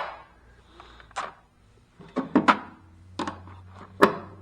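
Wrenches and other metal hand tools clinking and knocking as they are picked out of a toolbox. There are several sharp strikes a second or so apart, the loudest at the very start.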